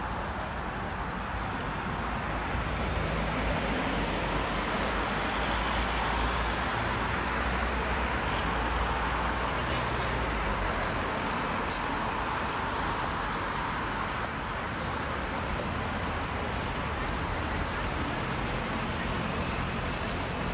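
Steady road traffic noise from passing vehicles. A low engine rumble swells from about two seconds in and eases off about halfway through.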